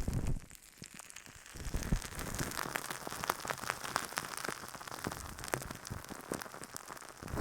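Close-miked ASMR trigger sounds: a dense, irregular run of small crackling clicks, like fingertips working on or right at the microphone, with a short low rumble at the very start.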